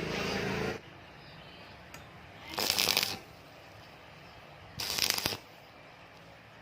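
Two short scraping, rasping noises about two seconds apart. Before them, a steady hum cuts off under a second in.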